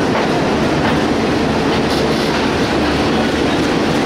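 Bangladeshi passenger train moving along the track, with a loud, steady running noise from the wheels on the rails.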